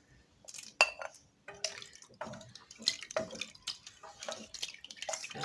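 Irregular clinks and knocks of a utensil against a cooking pot, with wet dripping sounds, as pieces of chicken breast are added to the pot.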